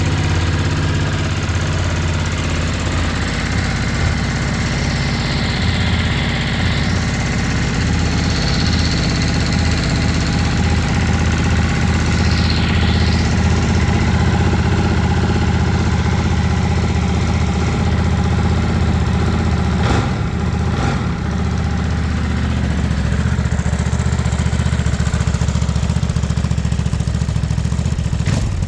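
Ducati DesertX's 937 cc Testastretta L-twin idling steadily, with no revving. A couple of short clicks come about twenty seconds in.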